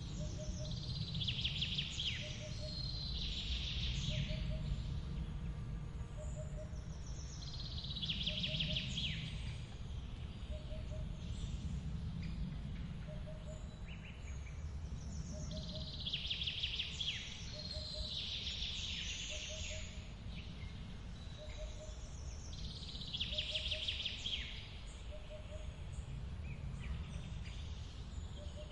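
Forest waterfall running as a steady low rush, with songbirds singing in bursts every few seconds. A soft short note repeats a little more than once a second.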